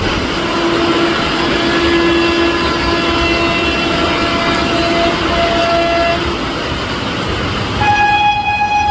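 Indian electric express train running past at speed with a loud, steady rushing noise and a steady tone through the first few seconds. The rushing eases near the end as a locomotive horn starts sounding, about eight seconds in, and holds.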